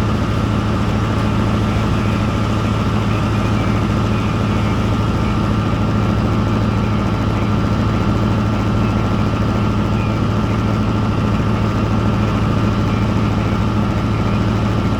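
Heavy engine running steadily at one constant speed: an unchanging low drone with a steady higher whine above it.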